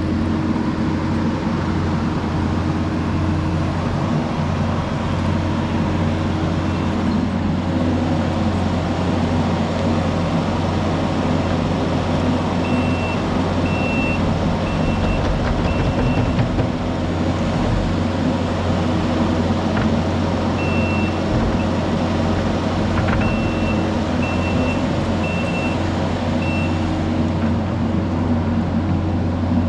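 Diesel engine of heavy earthmoving equipment running steadily under work. A backup alarm beeps about once a second in two runs, one in the middle and one through the second half, as the machine reverses.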